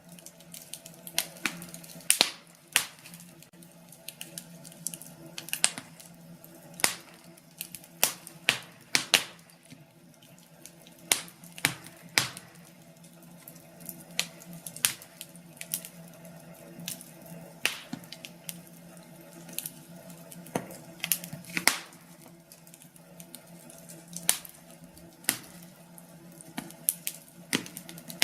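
Wood fire in a fireplace crackling, with sharp irregular pops and snaps, several loud ones, over a steady low hum.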